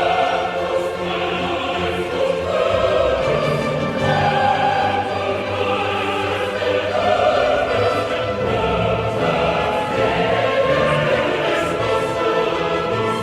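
Choral music with orchestra: voices holding long, slow chords that change every second or two.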